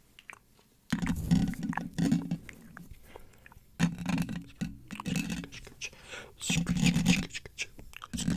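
Close-miked wet mouth sounds: small lip and tongue clicks, layered with brushing and scratching right on the microphone. After a quiet first second, the brushing comes in three or four rustling passes of about a second each.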